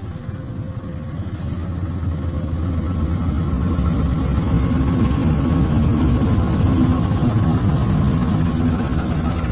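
Diesel locomotive engine running with a heavy low rumble that grows steadily louder as the train approaches.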